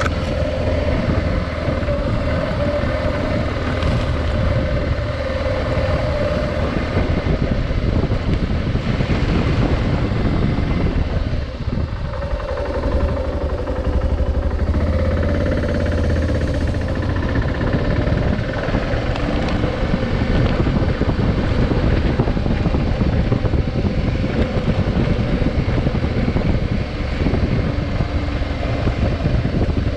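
Adventure motorcycle engine running steadily under way, with wind buffeting the microphone; the engine note eases off briefly about twelve seconds in.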